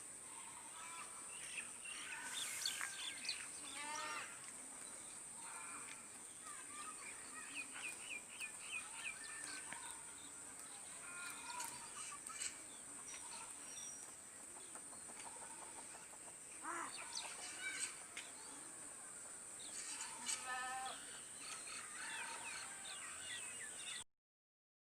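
Birds chirping and calling in short, quick phrases over a steady high-pitched whine. The sound cuts off suddenly near the end.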